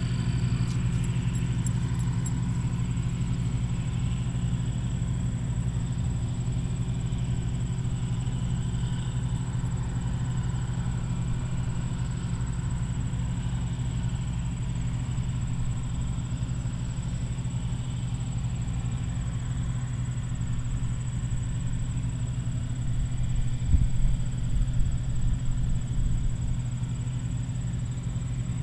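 Massey Ferguson combine's diesel engine running at a steady pitch while harvesting soybeans, a deep even drone, with a few low thumps near the end.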